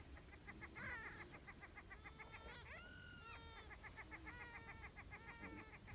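Faint chorus of greater prairie chickens at a lek: rapid, repeated cackling calls, with a few longer, held whooping notes in the middle.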